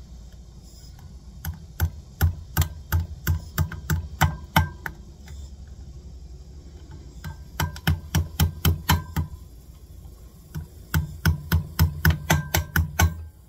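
A hammer knocking a sealed bearing into a wheel hub in three runs of quick, sharp blows, about three to four a second, with short pauses between runs.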